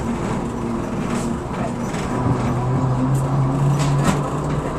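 Train running slowly, heard from inside the driver's cab: steady rumble of the engine and running gear, with a low engine hum that strengthens about two seconds in and a few sharp clicks.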